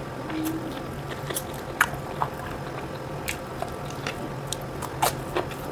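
Close-miked biting and chewing of food, with scattered short wet clicks and smacks from the mouth; a boiled okra pod is being bitten as it begins.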